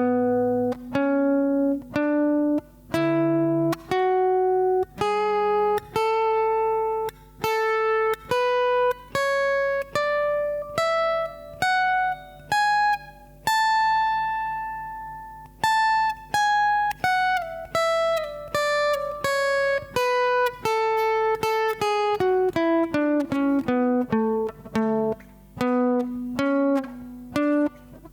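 Guitar played one note at a time, running up a major scale pattern slowly and evenly, holding a top note for about two seconds, then coming back down with quicker notes.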